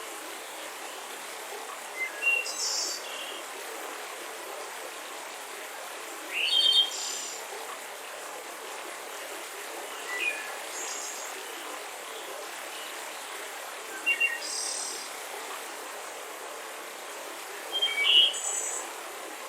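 Birds chirping in short high phrases about every four seconds over the steady rush of a mountain river.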